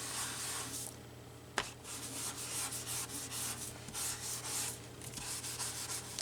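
Repeated scrubbing strokes of an ink blending tool rubbed over the edge of paper to ink and distress it, with a brief pause about a second in, a single click, and another short lull near the end.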